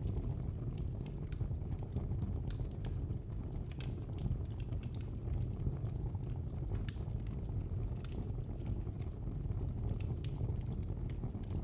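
Wood fire in a fireplace crackling: irregular sharp snaps and pops over a steady low rumble of the burning flames.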